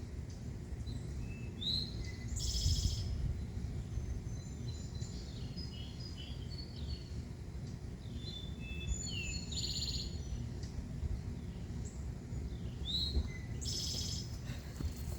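Songbirds chirping, with short whistles that slide up or down and a short, fast trill repeated three times about five seconds apart. A steady low rumble runs underneath.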